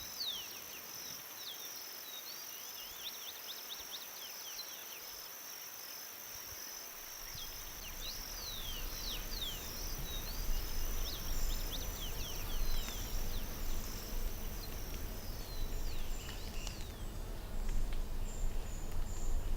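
Rural outdoor ambience: insects chirping in a steady, evenly pulsing high drone, with many short falling chirps throughout. A low rumble comes in about seven seconds in.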